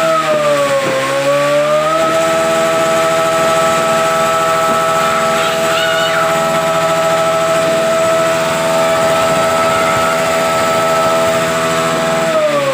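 Big motorcycle engine revved and held at high rpm, one steady pitch for about ten seconds after a wavering start, then the revs falling as the throttle is let go near the end.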